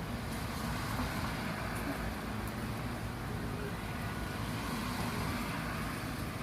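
Steady rain falling, an even hiss and low rumble with a few faint drop ticks.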